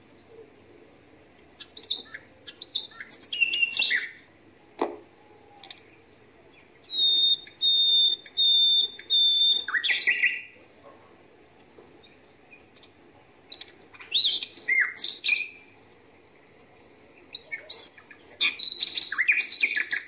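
Small birds chirping and whistling in short bursts separated by quiet gaps. A little after seven seconds in, a bird gives four clear whistled notes, evenly spaced and on one pitch, and rapid chirping clusters come near the middle and the end.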